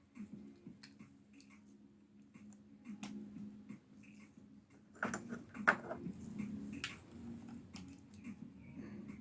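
Scattered light clicks and taps of small hard parts being handled during work on a Wahl Senior hair clipper, with a cluster of sharper clicks about five to six seconds in.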